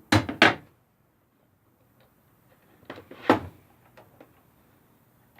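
Knocks and clunks from handling the horizontal router table: two quick knocks right at the start, then a short slide ending in a louder clunk about three seconds in.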